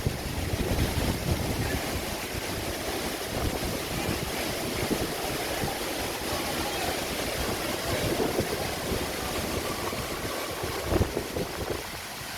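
Agaya Gangai waterfall in heavy flow: a steady rush of falling water, with wind buffeting the microphone in low rumbles.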